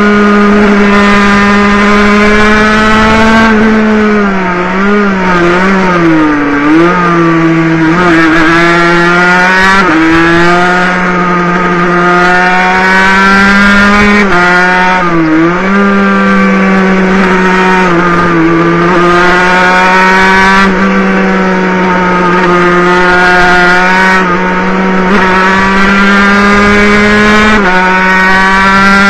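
Water-cooled 50cc two-stroke racing motorcycle engine heard onboard, running flat out with a loud, steady high-pitched wail. Its revs dip and climb back twice, a few seconds in and again about halfway through, as the bike goes through corners, with brief smaller dips later on.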